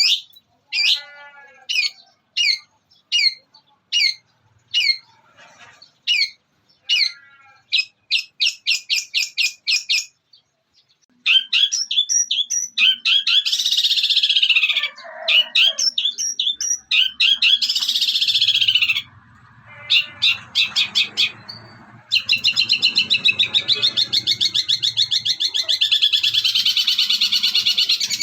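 Long-tailed shrike (cendet) singing a mimicry-filled song. First come sharp, high calls repeated about twice a second, then, after a brief pause, fast chattering runs with a couple of falling squeals. Near the end it goes into a continuous rapid chatter that includes mimicked squabbling-sparrow calls.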